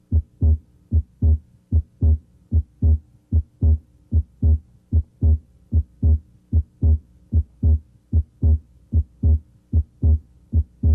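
Human heart sounds heard through a stethoscope at the left third interspace: a steady run of paired low thumps, the first and second heart sounds (S1 and S2). Here S2's aortic and pulmonic components, A2 and P2, may both be heard.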